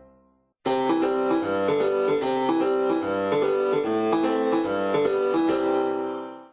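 Short keyboard music cue: a brief silence, then a busy run of quick piano-like notes starting about half a second in, fading away right at the end.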